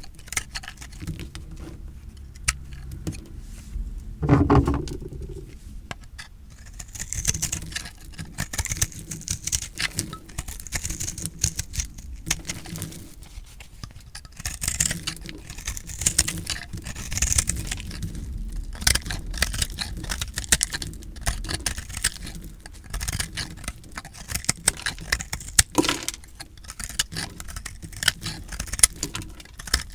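Recycled soap being cut with a blade: a dense run of small crisp crunches and crackles, with one heavier thud about four seconds in.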